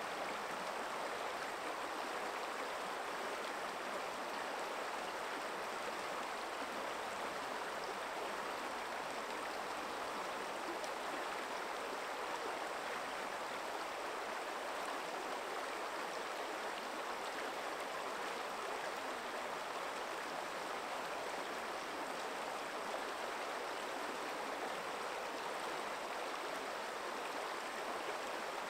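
Forest stream flowing steadily over stones, a continuous even rush of running water.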